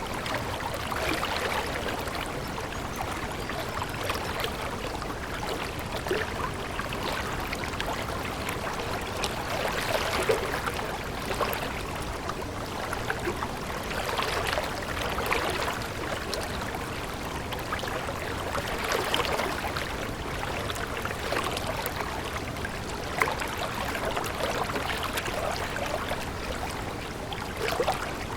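A stream running steadily, its water babbling and trickling in a constant rush that swells slightly every few seconds.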